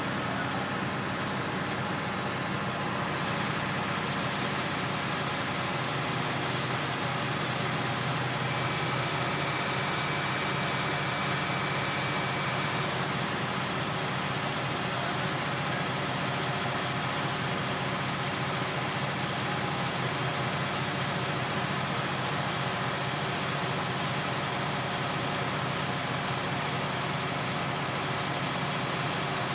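A heavy engine running steadily at an even, constant level, with a faint thin whine for a few seconds partway through.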